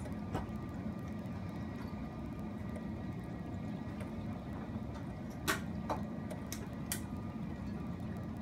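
Steady rain falling outside an open window, with a few sharp drip ticks about five to seven seconds in.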